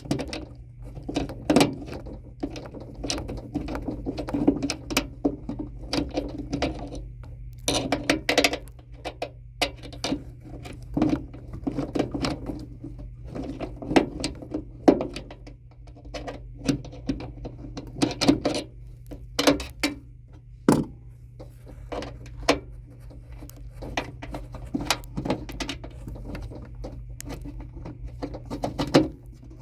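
Hand tools and metal parts being handled: irregular clicks, taps and knocks over a steady low hum.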